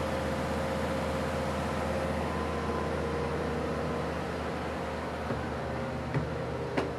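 Steady low drone of an idling diesel passenger train standing at the platform, with a held hum running through it. Near the end come two sharp knocks, footfalls on the car's steel boarding steps and vestibule floor.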